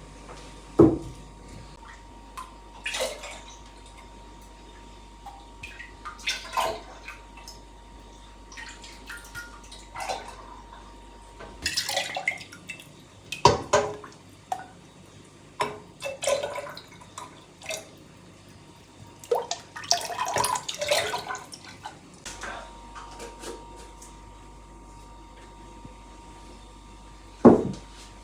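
Water splashing and dripping in irregular bursts, with a sharp knock about a second in and another near the end.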